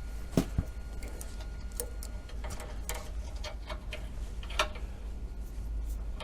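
Scattered light clicks and taps of a metal hydraulic line and its flare fitting being handled and threaded into a power trim pump, with two sharper knocks near the start and another about four and a half seconds in.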